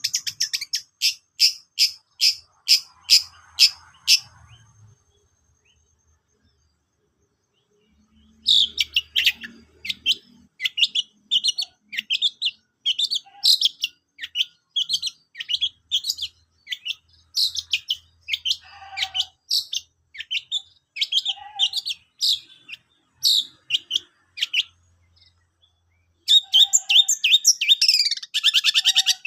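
Long-tailed shrike (cendet) singing: a run of sharp, evenly repeated high calls, about two a second, then a pause of a few seconds, then a fast, varied chattering song that grows denser near the end.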